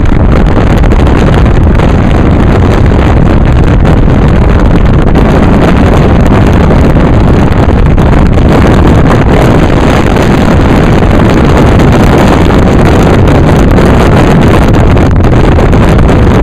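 Wind buffeting the camera's microphone held at a moving car's window, a loud steady rumbling noise mixed with the car's road and engine noise.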